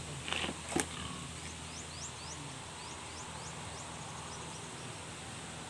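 A small bird chirping: a run of about ten short, high, rising chirps. A single sharp click comes just before, in the first second.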